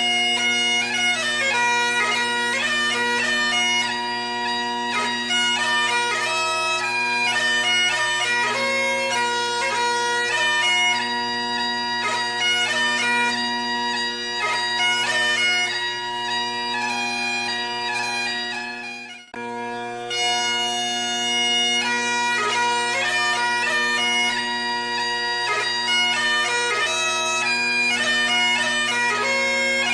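Highland bagpipe music: steady drones under a chanter melody. It breaks off for a moment about nineteen seconds in, then starts again.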